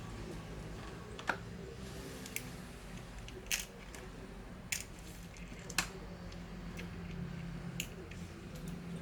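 Sharp clicks and taps of small parts and tools being handled while a laptop is taken apart, about five distinct clicks a second or more apart, over a steady low hum.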